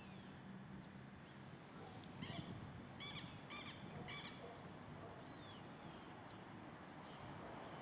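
Birds calling: four short calls with a buzzy, ringing ring to them come about half a second apart a couple of seconds in, with a few faint thin whistles from other birds around them.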